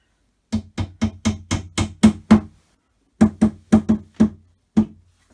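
Hammer blows on a flat-pack wooden cupboard during assembly, struck in quick even runs of about four a second: eight strikes, a short pause, then five more.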